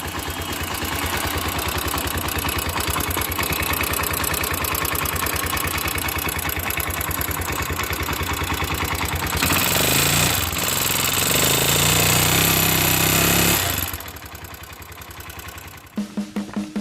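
Motorcycle engine running with a fast, even firing beat, carrying the abnormal engine noise that is the fault being diagnosed. It is revved up louder for about four seconds in the second half, then drops back toward idle.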